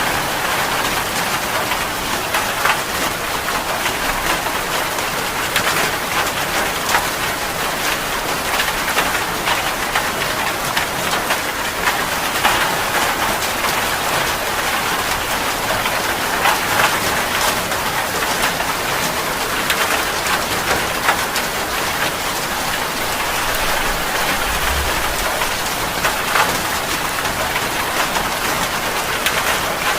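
Steady rain falling on a surface, an even hiss full of close individual drop impacts.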